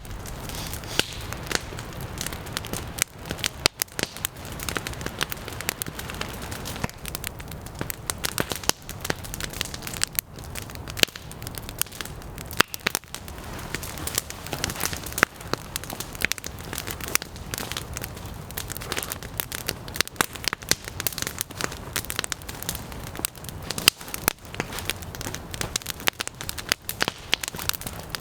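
Campfire crackling and popping: many irregular sharp snaps over a steady low rumble.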